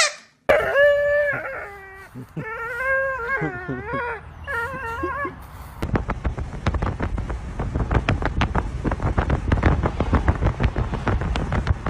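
A dog giving several long, wavering, high-pitched cries for the first five seconds or so. After that comes a dense run of rapid clicking and rattling.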